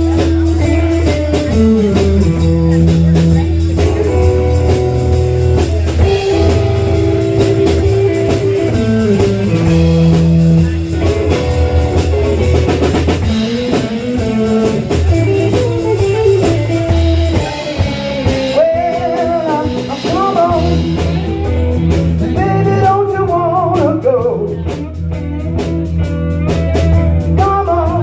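Live band playing a blues number: guitar, bass and drum kit, with a singer's voice weaving over it in the second half.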